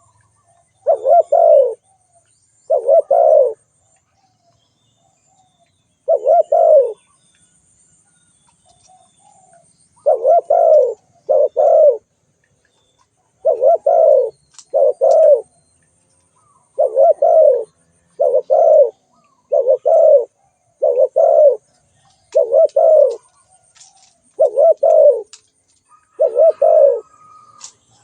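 Spotted dove cooing: short, loud, low coos repeated every one to two seconds, often in close pairs.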